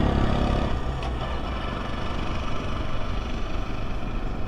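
Motorcycle engine running on the move, with steady road and wind noise; the engine note eases off in the first second.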